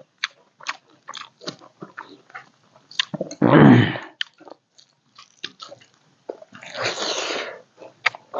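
A person eating: chewing with many short, wet mouth clicks. A loud low voiced sound with falling pitch comes just after three seconds in, and a longer breathy rush of noise near seven seconds.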